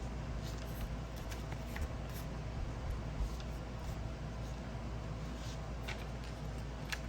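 Faint rustling and light taps of paper banknotes being handled and counted, over a steady low room hum.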